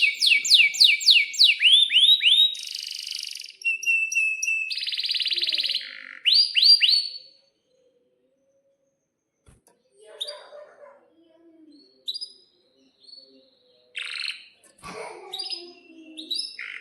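Domestic canary singing: a fast series of repeated sweeping notes, then buzzy rolling trills and a few rising notes, stopping about seven seconds in. After a pause of about two seconds come fainter, scattered chirps.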